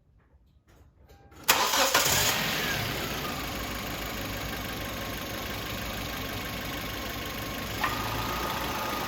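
A 2012 Hyundai Elantra Touring's four-cylinder engine is started about a second and a half in. It catches at once, runs loudest for under a second, then settles to a steady idle. A short click comes near the end, followed by a faint steady whine.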